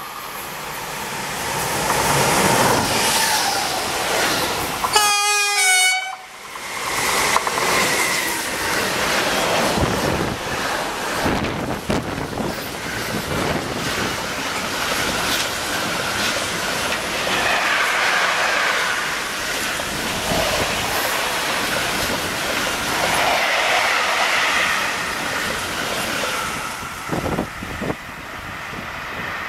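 Freight train passing close on the electrified line, its wheels running over the rails in a loud, steady rush, with a short horn blast about five seconds in.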